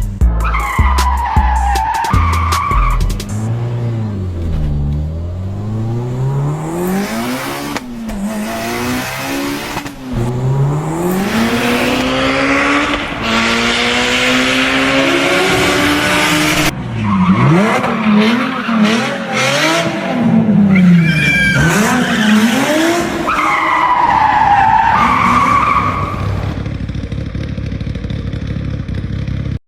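Racing car engine revving up and falling back again and again, as if shifting through the gears, with tire squeals near the start and again near the end. It is the sound of a car drifting at speed, most likely laid over the toy car's footage.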